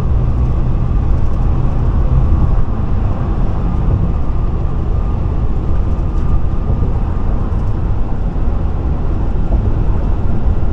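Steady low road and engine rumble of a Chevrolet cruising at highway speed, heard from inside the cabin.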